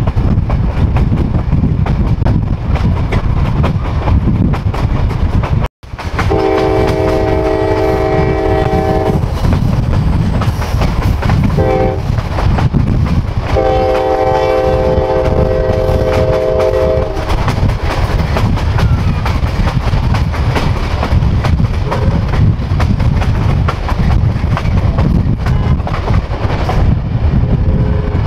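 Passenger train running on rails, heard from a car window: a steady rumble with clickety-clack. Over it the train's multi-chime horn sounds three times: a long blast, a short one, then another long one.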